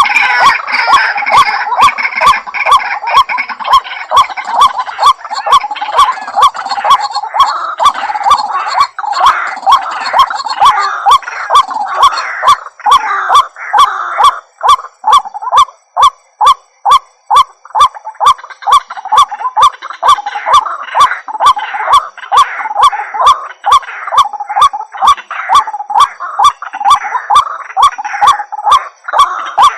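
White-breasted waterhen (ruak-ruak) calling over and over in a continuous series, about two notes a second, each note with a sharp click.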